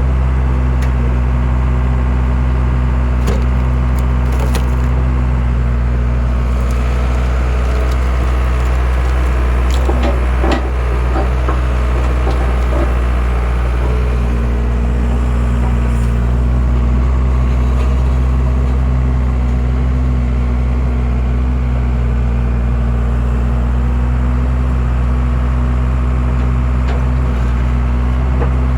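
A skid steer's engine running steadily while it powers a homemade hydraulic log splitter, with wood cracking and splintering as logs are split, the cracks clustered around ten seconds in.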